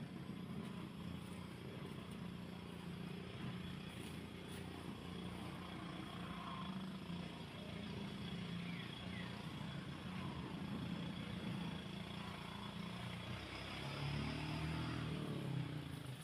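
A small engine running steadily, its pitch shifting near the end, with a few faint bird chirps.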